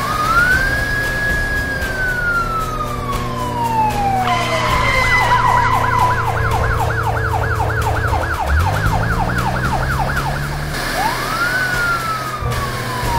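Police car siren: a slow wail rising and falling, then a fast yelp of about three sweeps a second, then the wail starting again near the end. A car engine revs up briefly about two-thirds of the way through.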